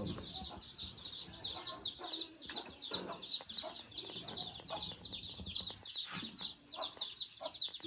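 Chicks peeping continuously: a steady stream of short, high, falling peeps, about five or six a second, with a few soft knocks among them.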